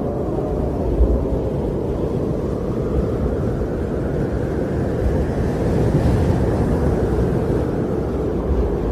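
Winter storm wind blowing steadily, a deep rushing that swells a little about five seconds in.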